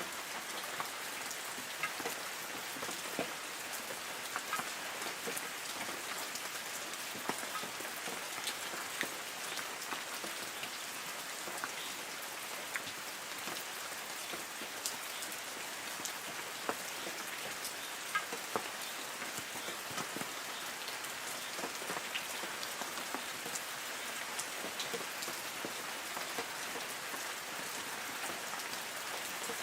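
Light rain falling on forest trees: a steady patter with many separate drops ticking on leaves.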